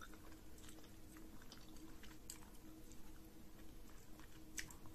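Faint close-up chewing and wet mouth clicks from a person eating pounded yam fufu with banga soup by hand, over a low steady hum.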